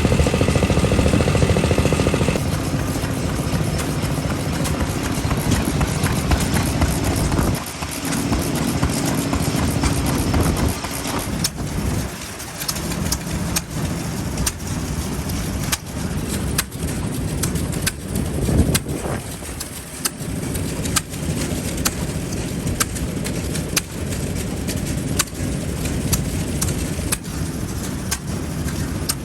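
Vintage stationary engines running, with sharp, uneven exhaust pops throughout; the engine sound changes abruptly twice early on.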